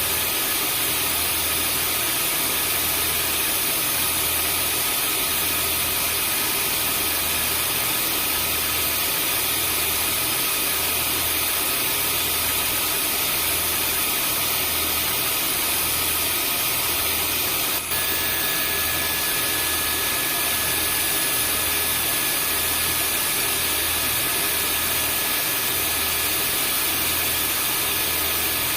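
Vacuum cleaner running steadily: an even rushing hiss with a high motor whine and a slow low throb, pulsing about once every second and a half. About two-thirds of the way through there is a brief click and dropout, and the whine's pitch shifts slightly.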